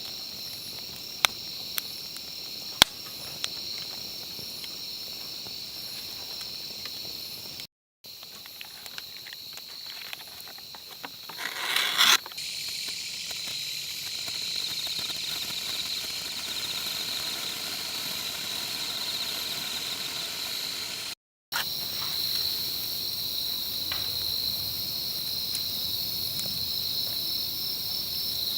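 Steady chorus of insects chirring, with a few sharp clicks in the first few seconds and a brief swell of noise about twelve seconds in; the sound cuts out twice for a moment.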